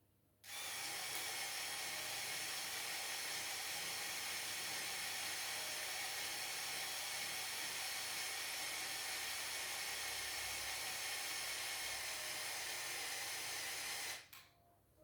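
Small electric motor whirring steadily through plastic gears, starting suddenly about half a second in and cutting off near the end: the LEGO Technic 42082 crane's Power Functions motor working a function under load.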